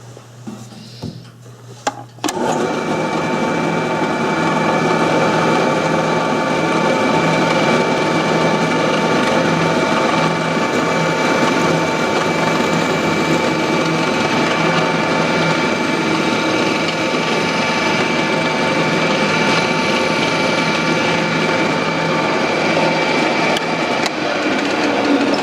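Electric drill starting up about two seconds in and running steadily, boring an axle hole through the wooden body of a model car.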